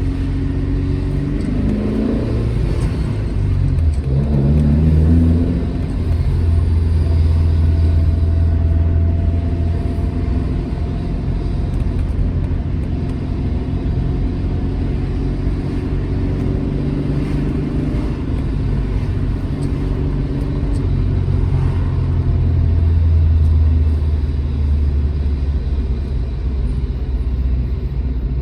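Alfa Romeo GT Junior's twin-cam four-cylinder engine driving on the road. Its revs rise twice in the first five seconds, then it runs fairly steadily with slow small changes in pitch, over a deep road rumble.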